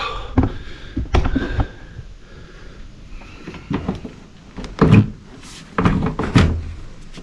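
A series of scattered knocks and thuds from hands handling parts and gear, the loudest about five seconds in and twice more around six seconds in.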